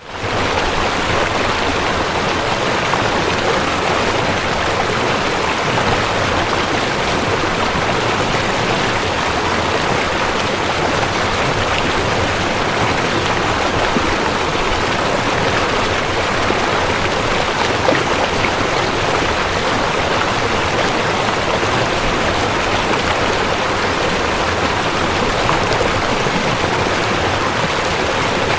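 River water rushing over rocks, a steady loud wash of noise that fades in at the start and then holds even.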